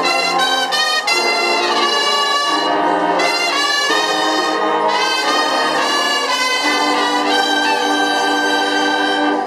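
Marching band brass section of trumpets and trombones playing loud held chords that change every second or so, then stopping abruptly.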